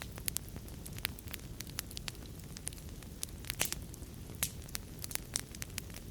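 Wood fire burning in a fireplace: a steady low rumble of flames with irregular sharp crackles and pops, the loudest pop about three and a half seconds in.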